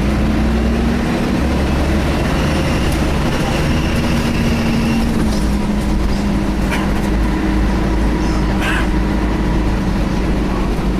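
Inside a Scania L113 bus on the move: a steady low engine drone with humming tones from the engine and cooling fan that shift in pitch now and then. Brief rattles about seven and nine seconds in.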